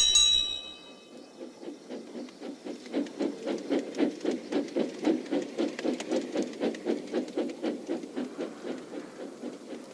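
A bell's ring dies away at the start, then a steam tram engine puffs steadily at about four chuffs a second, building and then slowly fading as it runs along.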